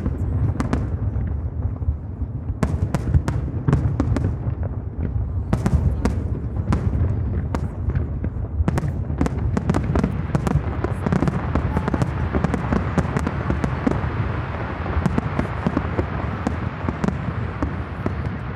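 Aerial fireworks bursting over a harbour: many sharp bangs in quick succession over a low rumble. About halfway through they thicken into a dense, continuous crackle.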